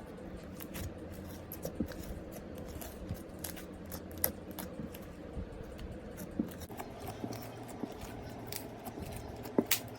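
Slime being handled and squished by hand, with many irregular small clicks and pops, the loudest near the end.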